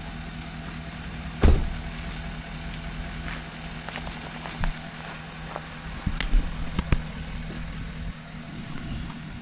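Ford F350 6.7 L turbo-diesel truck running with a steady low hum. A loud sharp clunk comes about a second and a half in, and a few smaller knocks and rattles follow later.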